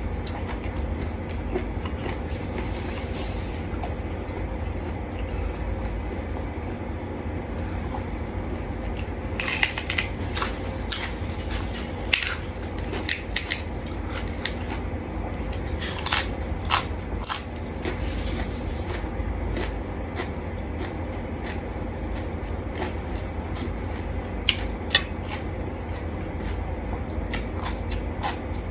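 Close-up eating of a seafood salad: short crunchy bites and wet chewing in clusters, densest about ten seconds in, again a few seconds later, and near the end, over a steady low hum.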